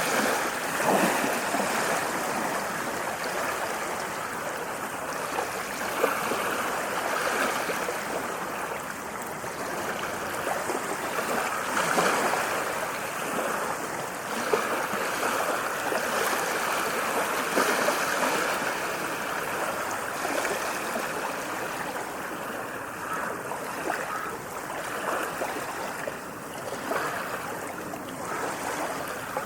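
Small waves washing and splashing in a continuous wash of water, with gentle rises and falls but no single large breaking surge.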